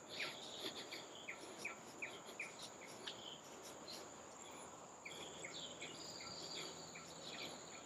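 Tropical forest ambience: a steady high-pitched insect drone, with a series of short falling chirps repeating about two to three times a second.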